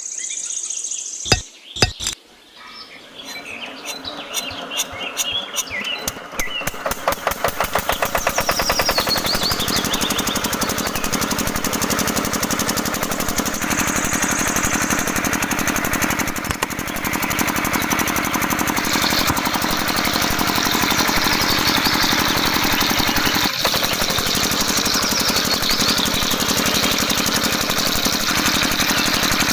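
Small engine of a homemade generator and pump rig starting up: two sharp knocks, then firing strokes that speed up over several seconds and settle into a fast, steady running rattle.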